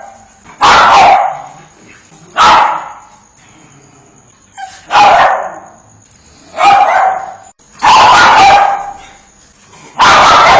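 A dog barking loudly, one bark or a quick double bark every one and a half to two seconds, six times in all. A faint steady high-pitched whine runs under the barks.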